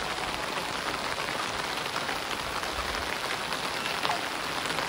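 Heavy rain falling steadily, a dense hiss of many small drop hits.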